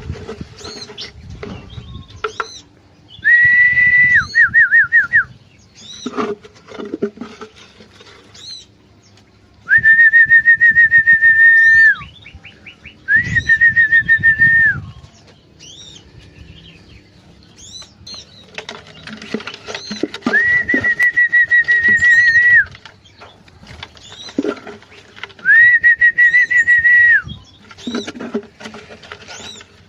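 Aviary birds calling: long, level whistled notes at one pitch, each lasting a second or two and repeated about five times, one ending in a quick trill, with short rising chirps in between.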